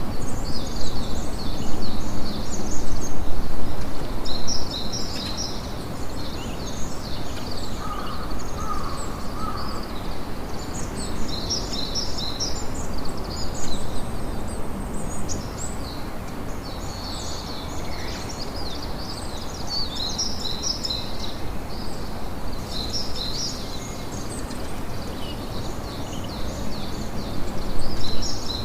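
Campfire crackling and hissing steadily, with birds chirping in quick high clusters every few seconds.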